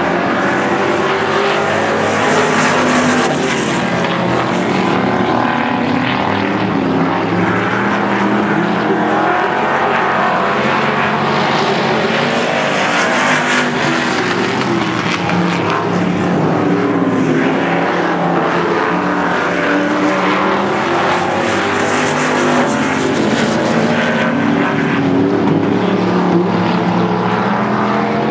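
A field of pure stock race cars running laps in a heat race. Several engines at high revs overlap, their pitches rising and falling as the cars go through the turns and pass.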